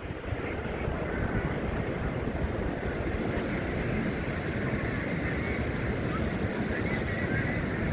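Steady outdoor rushing noise of wind buffeting the microphone, mixed with the wash of ocean surf.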